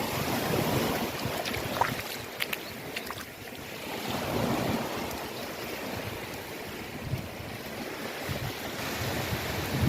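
Ocean waves washing in and drawing back, as a rushing haze that swells and eases. A few short, sharp splashes stand out about two to three seconds in.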